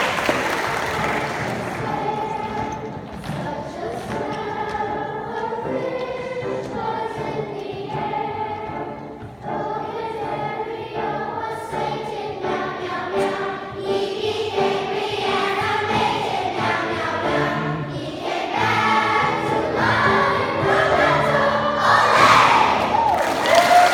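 A choir singing, with applause dying away during the first couple of seconds and breaking out again near the end.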